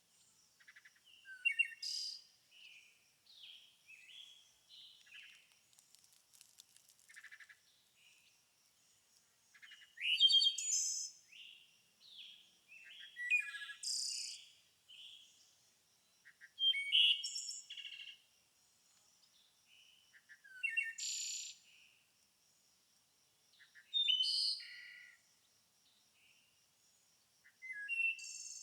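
Songbirds singing: one bird repeats a loud, quick, high-pitched phrase of about a second every three to four seconds, while fainter birds chirp between its phrases. A faint steady high whine runs underneath.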